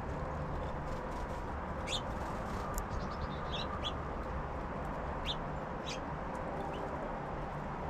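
Small songbirds at a feeder giving short, high chirps, about a dozen scattered through, over a steady low background hum.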